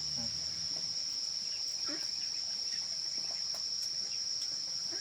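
Crickets chirring in a steady, unbroken high-pitched drone.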